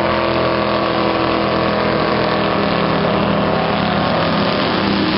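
A boat's motor running steadily at an even pitch.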